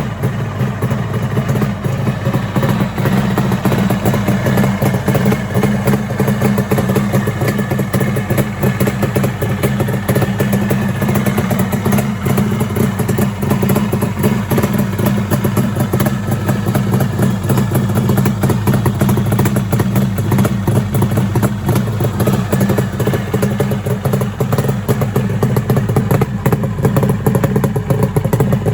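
Kawasaki 750SS air-cooled two-stroke triple running steadily at idle, on its first run after several months unused.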